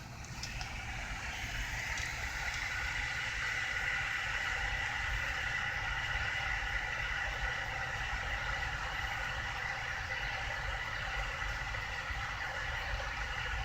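Vehicle engine running steadily, with a steady higher hum over the low rumble.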